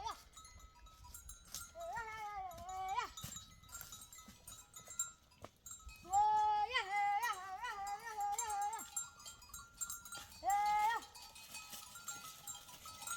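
Sheep and goats of a flock bleating: three quavering bleats, the middle one long, with an animal bell ringing faintly behind.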